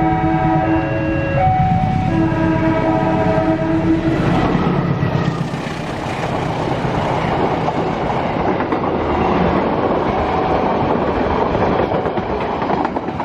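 An alternating two-pitch electronic warning tone sounds for the first four seconds or so. Then a diesel train hauled by a CC 204 locomotive passes close by, its loud rolling rumble and wheel noise filling the rest.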